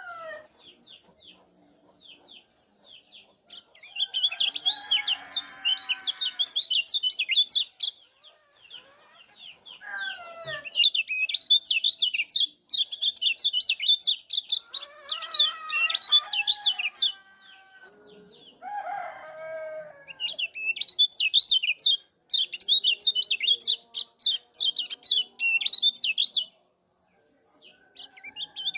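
Kecial kuning (a white-eye) giving rapid strings of high 'ciak' chirps in bursts of several seconds with short gaps between. A few lower, sliding calls from another bird come in about 10, 15 and 19 seconds in.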